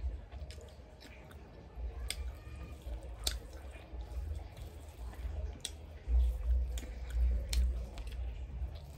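Close-up eating sounds: a person chewing a mouthful of rice and meat and squishing rice with the fingers. There are a few sharp wet clicks from the mouth and fingers, and dull low thumps about six seconds in.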